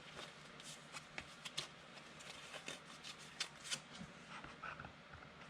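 Football trading cards being handled and sorted, with soft, scattered flicks and clicks of card stock sliding against each other.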